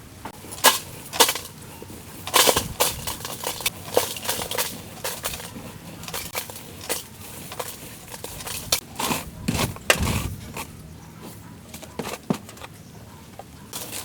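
Irregular series of sharp knocks and clanks, like hard objects striking one another, with the loudest strikes about a second in and a couple of duller thuds mixed in.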